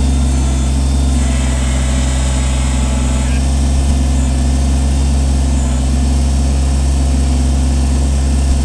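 Kubota compact tractor's diesel engine running steadily at a constant speed.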